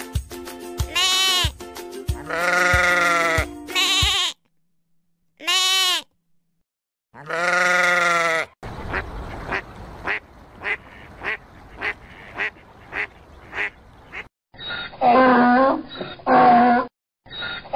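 Lambs bleating several times over background music, then, near the end, a donkey braying in repeated loud calls.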